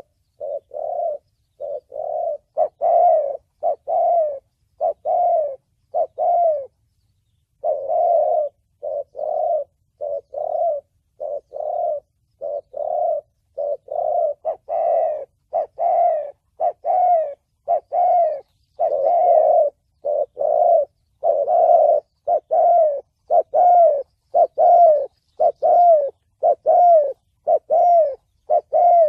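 Spotted dove cooing: a long, steady series of short, low coos, about two a second, with one brief pause about seven seconds in. A lure call of the 'thổ bầu' style, used to draw wild doves to a trap.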